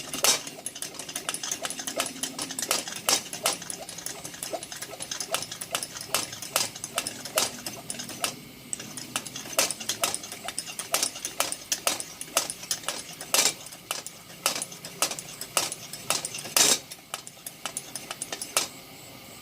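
Hand air pump of a Butterfly 350 CP kerosene pressure lantern being worked, a sharp click at each stroke about two a second, pressurising the fuel tank. The strokes stop near the end, leaving a steady hiss.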